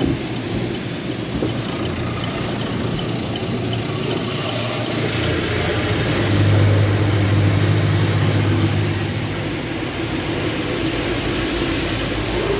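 Motor City Wash Works car wash tunnel equipment running: a steady rush of water and machinery, with a low hum that swells louder about six seconds in and eases off a few seconds later.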